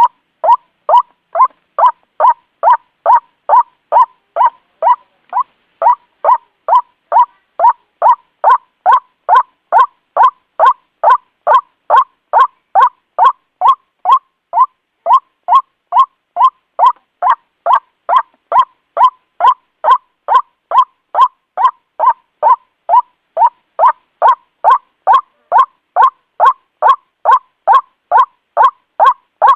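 White-breasted waterhen (Amaurornis phoenicurus) giving its monotonous "kwak" call: loud, short notes repeated at about two a second in an unbroken, even series. This is the territorial calling that trappers play back as a lure.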